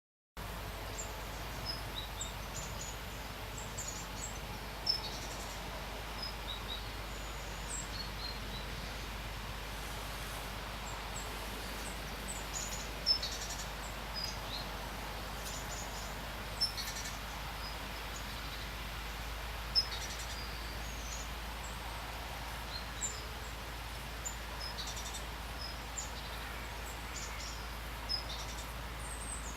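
Steady hiss of pouring rain, with short high bird chirps scattered throughout and a few sharp, louder taps.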